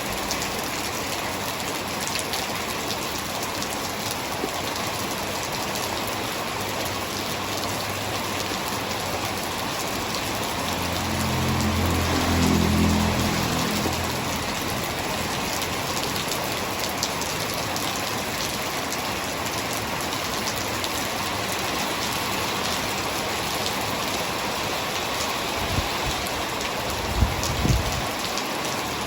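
Heavy rain falling steadily, an even hiss of countless drops. About halfway through a low rumble swells and fades over a few seconds, and near the end there are a few short low thumps.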